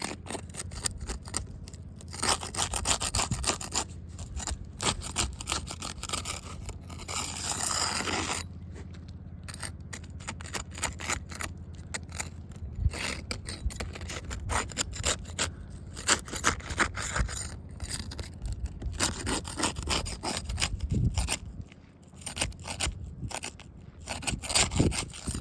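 Roof shingles being pried loose and scraped against the roof, in irregular bursts of scraping and crackling, over a steady low hum.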